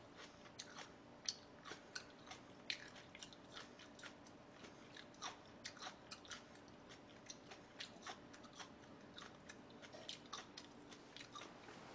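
Faint, close-miked chewing of food, heard as irregular short mouth clicks and crunches a few times a second.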